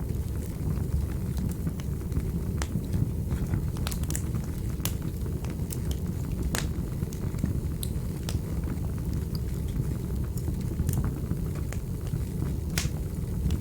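Wood fire burning in a fireplace: a steady low rumble of the flames with irregular sharp crackles and pops of burning logs.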